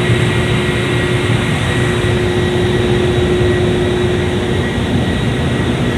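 Ingersoll Rand industrial air compressor and its electric motor running, a steady loud machine noise with a constant hum and a thin steady whine over it.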